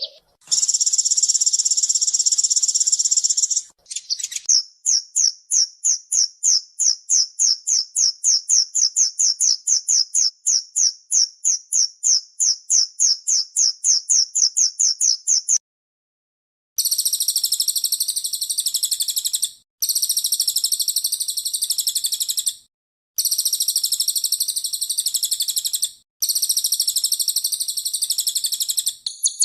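Kolibri ninja sunbird song, high-pitched and rapid: a short buzzy trill, then a long run of quick repeated chirps at about three or four a second, then several bursts of dense high trilling separated by brief pauses.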